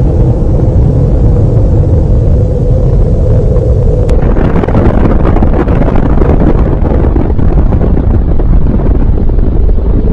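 Gas fireplace lit and burning: a loud, steady rumble of flame that grows fuller and hissier about four seconds in.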